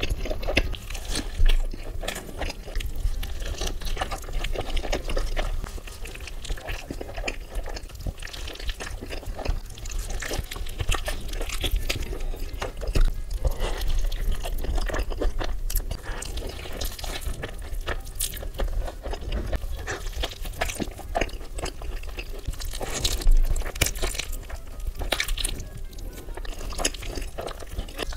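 Close-miked wet chewing and lip-smacking on a mouthful of burrito, with soft crunches, in a dense run of irregular clicks.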